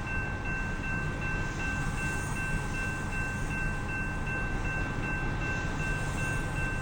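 A train rumbling past while a railroad grade-crossing bell rings steadily and rapidly.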